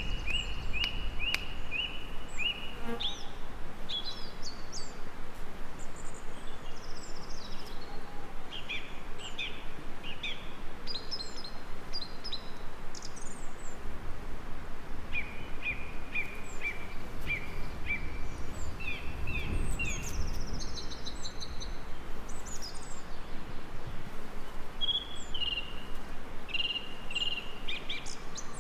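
Several songbirds singing: short repeated chirps and high trills over a steady hiss of background noise, with a low rumble swelling about two-thirds of the way through.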